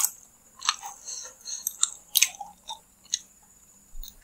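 Close-miked chewing of chicken satay and lontong rice cake in peanut sauce: wet mouth sounds with scattered sharp smacks, the strongest at the start and about two seconds in.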